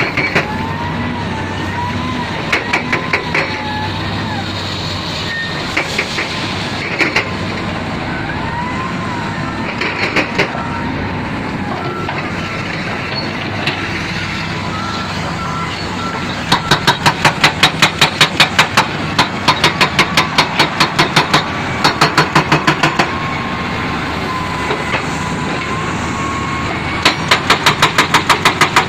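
Heavy construction machinery running steadily, with wavering high tones over it early on. Later come two long runs of rapid, even knocking, about five strokes a second, which are the loudest sound.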